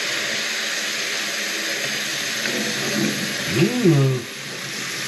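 Kitchen faucet running steadily into a sink while its drain is flushed out, the water going down quickly now that the drain is cleared. A short pitched sound rises and falls about three and a half seconds in, and the water is then a little quieter.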